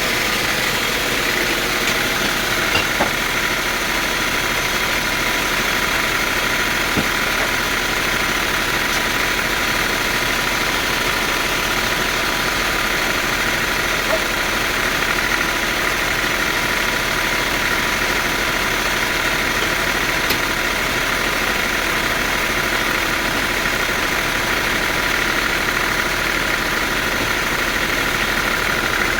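Sawmill machinery running steadily, a constant mechanical noise with a steady high tone over it.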